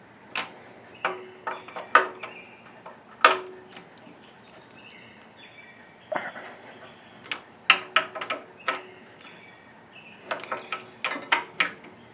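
Sharp metallic clinks and knocks of hand tools on metal parts, coming in three loose clusters, some ringing briefly.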